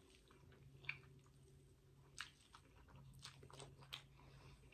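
Faint close-miked chewing of a mouthful of lo mein noodles: a few soft wet mouth smacks and clicks spread over the few seconds, over a faint low hum.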